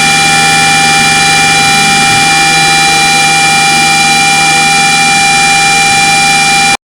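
Loud sustained electronic drone: many steady held tones over a noisy haze, unchanging throughout, cutting off abruptly just before the end.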